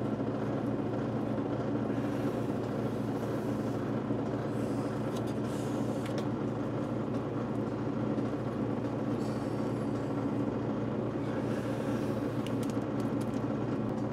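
A steady machine-like drone with a few faint clicks and scrapes.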